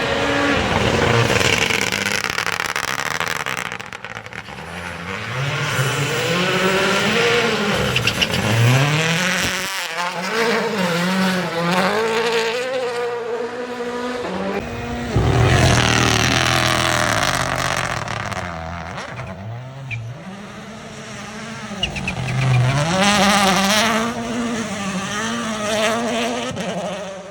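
Rally car engines at full throttle, revving up and dropping back again and again through gear changes and lifts. The sound swells loudest about a third of the way in, just past the middle and again near the end.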